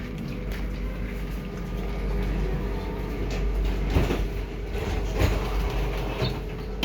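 Alstom tram running along the track, heard from inside the driver's cab: a steady low rumble with a steady hum, and a couple of sharp knocks about four and five seconds in.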